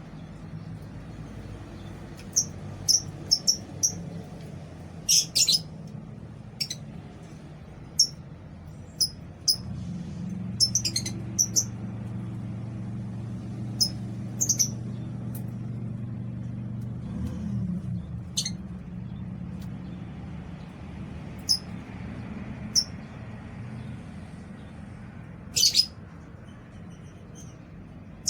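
Lovebirds giving short, shrill chirps at irregular intervals, some single and some in quick clusters, over a low steady hum.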